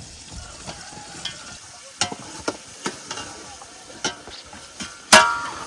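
Scattered knocks and scrapes of metal utensils, like stirring in a pot, with one loud ringing clink of metal about five seconds in.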